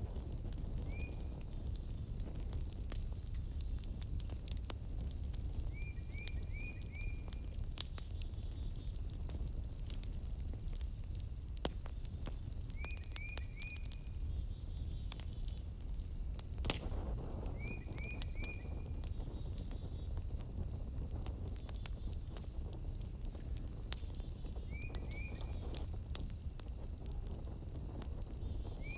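Wood fire in a fireplace crackling with frequent small pops and one sharper pop about two-thirds of the way through, over a steady low rumble. Short chirps in quick groups of three or four come every five or six seconds, with a steady high insect-like hum behind.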